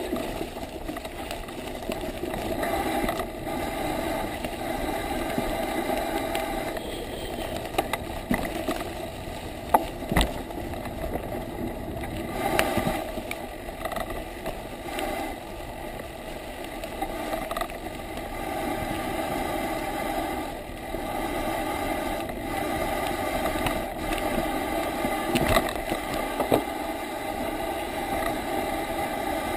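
Bicycle riding noise on a wet forest descent: tyres rolling and the bike rattling, a steady rushing sound with a few sharp knocks.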